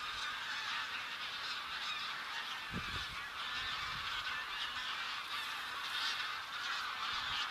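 A large flock of wintering waterfowl calling all at once: a dense, continuous chorus of overlapping calls with no single bird standing out.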